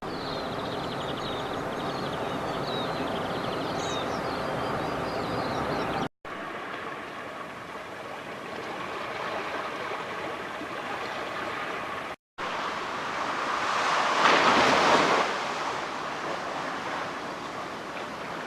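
Ocean waves washing and breaking on a beach, with birds chirping over the first few seconds. The sound drops out twice for a moment, and near the end a bigger wave swells up and breaks, the loudest part, then fades.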